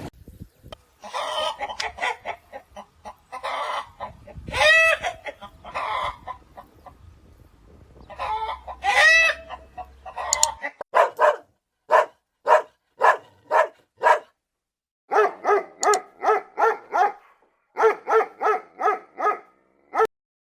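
Chickens calling: a rooster crows twice in the first half. Then comes a long run of short, evenly spaced clucks in groups of several at a time.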